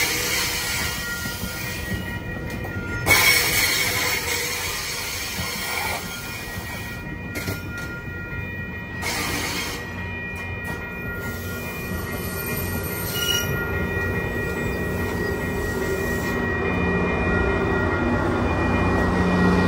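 GO Transit commuter train pulling into a station: steady high-pitched wheel and brake squeal, broken by a couple of short bursts of hiss. A low rumble builds and grows louder near the end.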